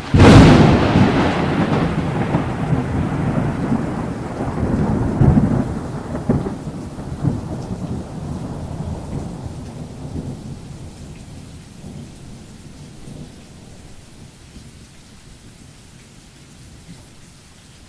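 Thunder: a sudden crack that rolls on as a deep rumble, swelling again about five seconds in and then fading slowly, with rain falling underneath.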